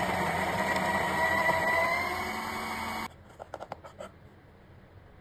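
HiBREW G3A electric coffee grinder running as it grinds beans, a steady motor noise with a whine that rises slightly in pitch, then cuts off suddenly about three seconds in. A few light clicks follow.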